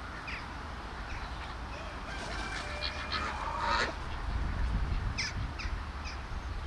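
Birds calling: repeated short, high, falling chirps, and a longer call with a clear pitch from about two to four seconds in.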